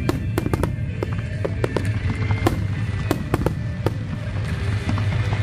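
Aerial fireworks going off in a rapid, irregular barrage: sharp bangs, several a second, over a continuous low rumble.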